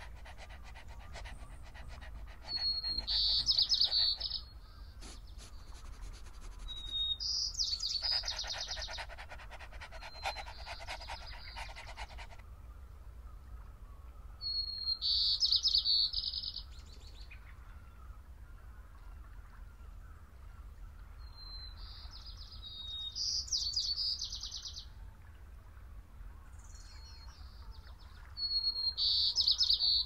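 A songbird repeating the same short song about six times, a few seconds apart: a thin lead note, then a fast trill lasting about a second. Stretches of rapid clicking come in the first few seconds and again around the middle.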